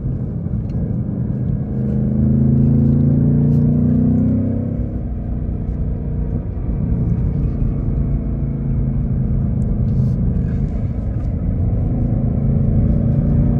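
2024 Ford Mustang GT's 5.0-litre Coyote V8 running through its active exhaust while driving. It pulls up through the revs and gets louder about two seconds in, eases off around five seconds, then runs steadily and builds a little again near the end.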